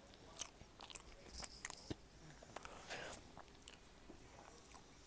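Close-up mouth sounds of someone chewing a brownie: scattered small wet clicks and crackles at an uneven pace, thinning out toward the end.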